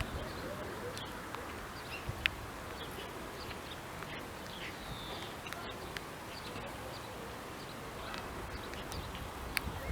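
Faint, scattered bird chirps over a steady background hiss of outdoor noise.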